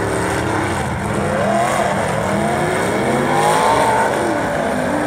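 Several demolition derby cars revving their engines at once, their pitches rising and falling over one another as they push against each other.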